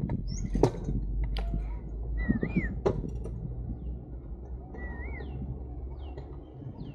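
Birds calling: short warbled whistles and several quick downward-sliding notes, with a few sharp clicks in the first three seconds. A steady low rumble runs underneath.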